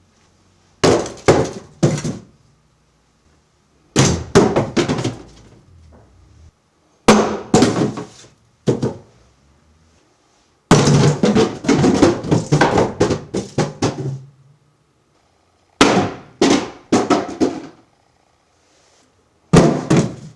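Boxes and other objects falling and crashing to the ground, each drop a rapid clatter of several impacts. There are six separate drops, the longest lasting about four seconds past the middle.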